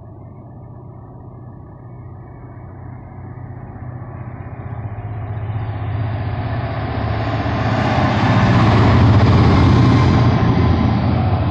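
Class 66 diesel-electric locomotive, with its two-stroke V12 diesel engine, hauling a freight train as it approaches and passes: a steady low engine rumble with rising wheel and rail noise grows louder, peaks about eight to ten seconds in, then eases slightly.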